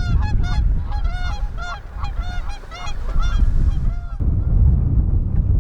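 A flock of geese honking, many calls overlapping in quick succession, over heavy wind rumble on the microphone. The honking stops abruptly about four seconds in, leaving only the wind.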